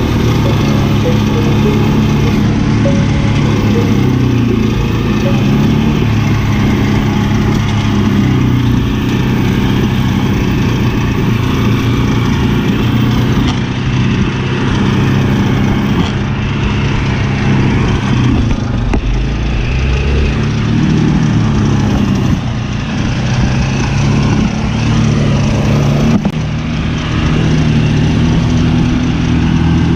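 Dirty Hand Tools pull-behind brush mower at work in tall grass: a steady, loud engine drone that wavers in pitch, easing briefly about two-thirds of the way through.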